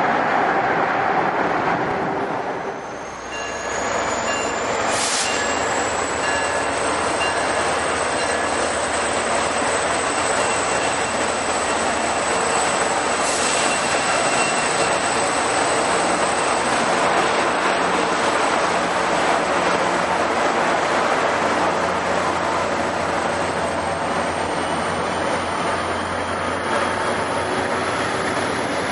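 Commuter train passing close by: a steady heavy rush of wheels on rail, with a high whine that rises in pitch a couple of seconds in and then holds, and a second high tone climbing near the end.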